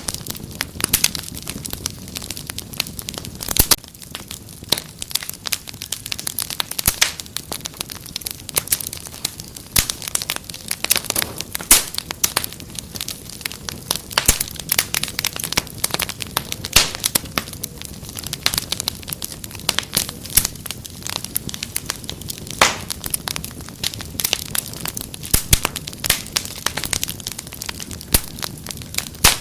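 Wood fire crackling, with frequent irregular sharp pops and snaps over a low steady rumble of flames.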